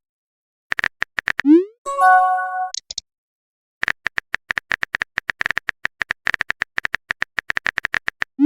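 Chat-app sound effects: a few quick typing clicks, a rising swoosh and a short bright chime as a message pops up. These are followed by a long run of rapid typing clicks, about nine a second, and a second swoosh starting at the very end.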